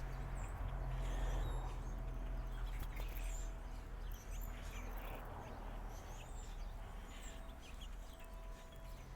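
Small backyard birds giving short, scattered high chirps over a steady low background rumble.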